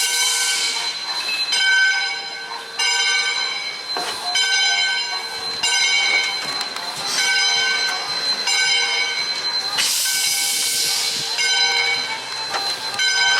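Steam locomotive's bell ringing steadily, one strike about every second and a half, with a burst of steam hiss partway through.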